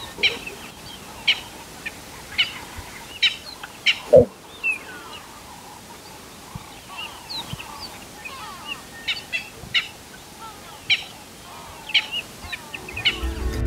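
Wild birds chirping in the bush: short, sharp, high calls repeated every second or so. About four seconds in there is one louder, lower sound that falls in pitch.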